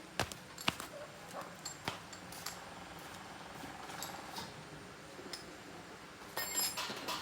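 Tools and motorbike parts being handled during a tyre repair: scattered light clicks and knocks, with a louder rustling, scraping patch about six and a half seconds in.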